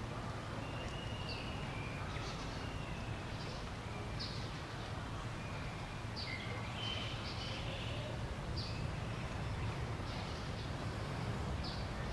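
Outdoor ambience: small birds giving short high chirps every second or two, with a few thinner calls, over a steady low rumble.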